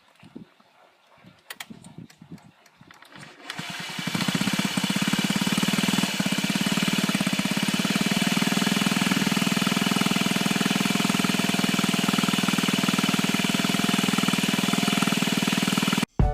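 Honda Zoomer scooter's small single-cylinder engine starting about three and a half seconds in, then running steadily with an even, rapid firing pulse; it cuts off just before the end.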